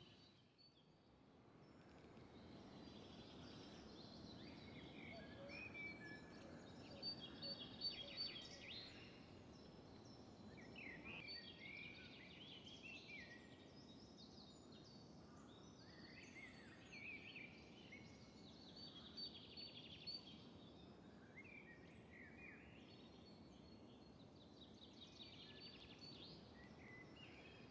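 Near silence with faint birdsong: several small birds chirping and warbling over quiet open-air background noise.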